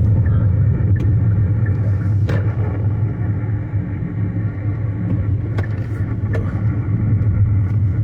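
Car moving along a road, heard from inside the cabin: a steady low drone of road and engine noise, with a few light clicks.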